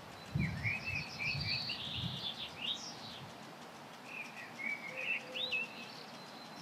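Small birds singing in two spells of quick chirping phrases, the first starting about half a second in and the second about four seconds in. Low dull rumbling and rustling sits under the first spell.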